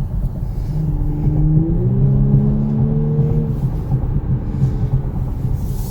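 2019 Audi S5 Sportback's turbocharged V6 accelerating from inside the cabin, its engine note rising in pitch for a couple of seconds and then easing off, over a steady low road rumble.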